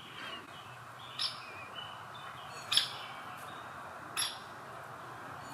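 Birds calling outdoors: three short, sharp call notes about a second and a half apart, the middle one loudest, over faint, wavering chirps.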